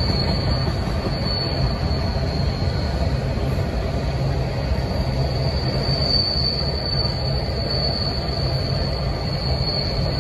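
Freight train of open-top hopper cars rolling past, a steady low rumble of wheels on rail, with a steady high-pitched whine running over it.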